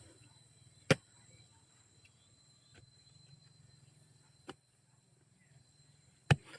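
Two sharp knocks about five seconds apart, with a couple of fainter ticks between them, over a faint steady high-pitched drone and a low hum.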